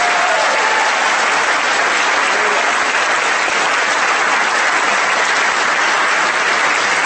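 Audience applauding, loud and steady, with a brief whoop right at the start.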